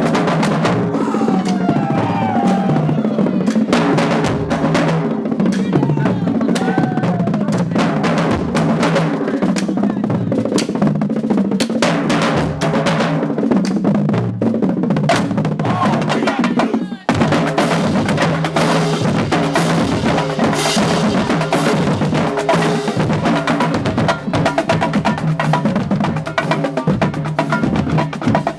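Marching band drumline playing a cadence: rapid snare drum rolls and strokes over pitched bass drums stepping through a pattern. The drumming breaks off abruptly about two-thirds of the way through and picks up again at once.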